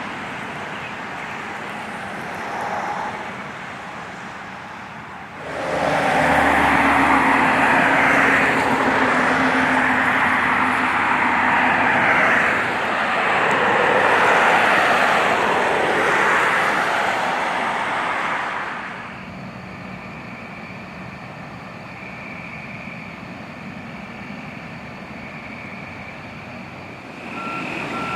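A loud rushing noise for about thirteen seconds, then a quieter steady hum; near the end a truck's reversing beeper starts beeping.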